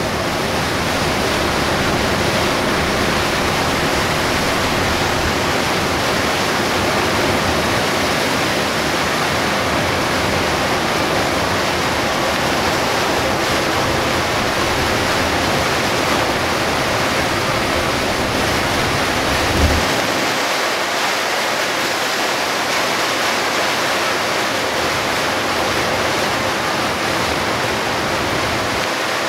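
Heavy rain pouring on a moving Hino Selega HD coach, with tyres hissing through water on the road, heard from inside the bus as a loud, steady rushing noise. A low thump comes about twenty seconds in, after which the deep rumble underneath fades.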